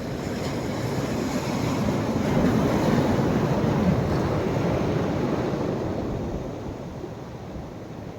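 Sea surf on a beach: a wave swells up about two seconds in, breaks and washes, then dies away near the end.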